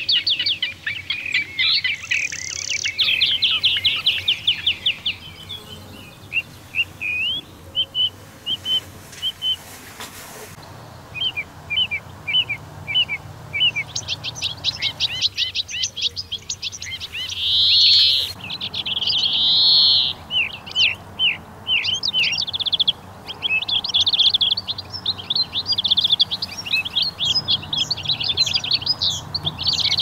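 Small birds chirping and singing in fast trills and short high chirps. The calls are dense at first, thin out to scattered chirps in the middle, then pick up again.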